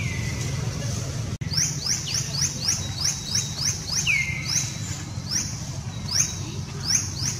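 Bird chirps: a quick, even run of short rising chirps, about three a second, starting about a second and a half in, with a longer falling whistle at the start and again about four seconds in, over a steady low background rumble.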